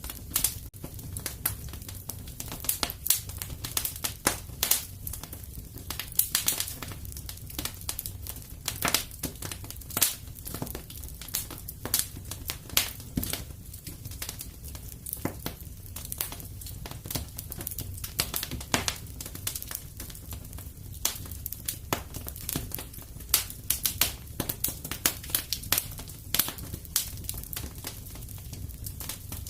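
Wood fire crackling and popping in a fireplace: a steady low rumble of the flames under dense, irregular sharp snaps.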